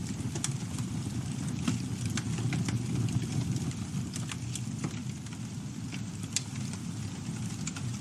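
Campfire burning with a steady low rumble, crackling and popping with scattered sharp snaps, one standing out about six seconds in.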